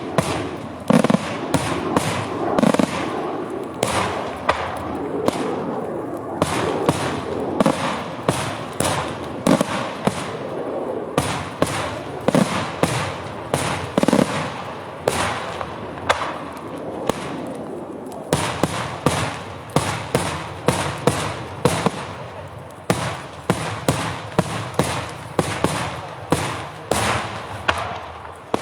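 Daytime fireworks display: a dense, rapid run of firecracker and aerial shell bangs, several a second, over a continuous rumble of explosions.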